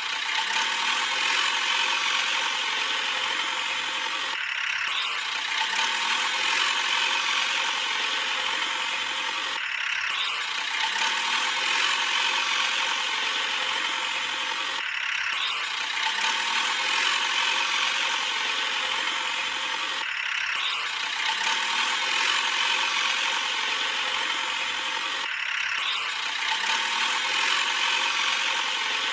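Toy JCB's small gear motor whirring and ratcheting steadily, with a short dip about every five seconds.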